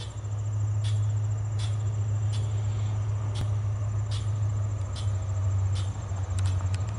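Low steady rumble of an approaching diesel passenger locomotive, with crickets trilling steadily and faint ticks about every three-quarters of a second.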